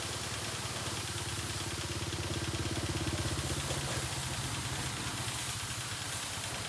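A small motor running steadily, its pulsing hum stronger for the first four seconds or so, over a steady hiss.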